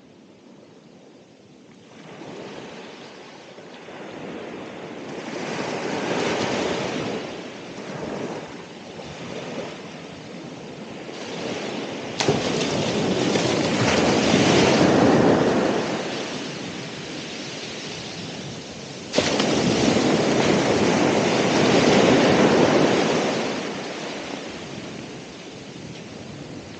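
Ocean surf, with waves breaking and washing up the shore. The rush fades in from quiet, then swells and ebbs in several surges. It jumps suddenly louder a little under halfway through and again about two-thirds through.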